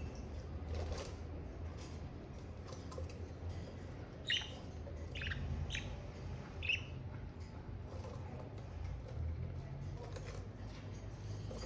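Budgerigars giving a few short, falling chirps in quick succession, about four near the middle, over a steady low hum.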